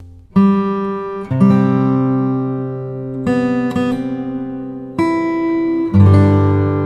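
Background music: slow acoustic guitar chords, each struck and left to ring before the next.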